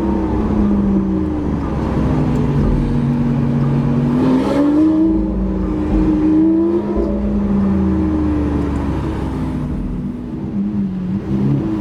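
Lamborghini Aventador's V12 engine running loud through a Capristo aftermarket exhaust. Its pitch holds steady, climbs about four seconds in, then eases back down, dipping briefly near the end.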